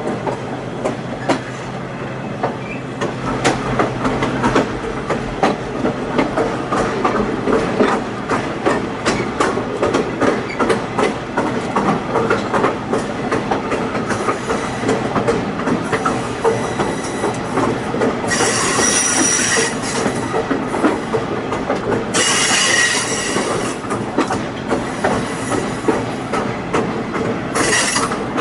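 Excursion train's passenger cars rolling along, a steady clattering rumble full of rapid clicks from the wheels on the rail. Three times in the second half, about 18, 22 and 27 seconds in, the steel wheels break into a high-pitched ringing squeal lasting a second or two, the flange squeal typical of taking curves.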